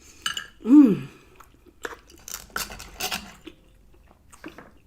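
A person chewing a mouthful of soft lasagna roll, with moist smacking and clicking mouth sounds in clusters. About a second in comes a short hummed vocal sound that rises and falls in pitch, the loudest thing here.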